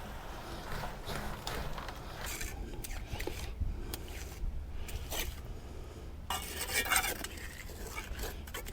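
Metal hand tool scraping and knocking in wet concrete, in short strokes with a longer scrape about six seconds in.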